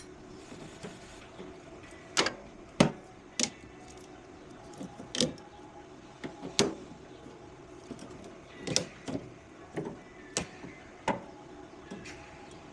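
About a dozen irregular knocks and clanks of objects being handled and set down, over a steady low hum.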